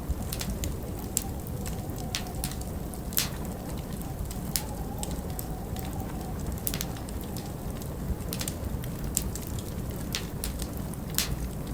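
Wood fire crackling, with irregular sharp pops, over a steady low rush of wind.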